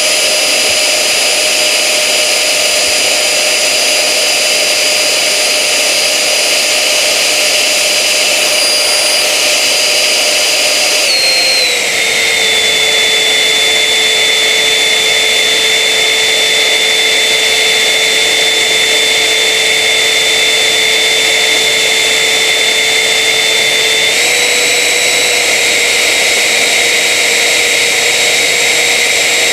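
Electric ducted-fan jet units of a Jetman model running under power, a steady high whine over rushing air. The whine drops in pitch about eleven seconds in as the throttle comes back, then rises a little about twenty-four seconds in.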